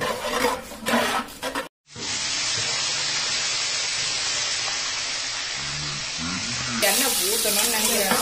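Sliced shallots frying in hot oil in a large cooking pot: a steady, loud sizzle that starts about two seconds in, after a brief silence.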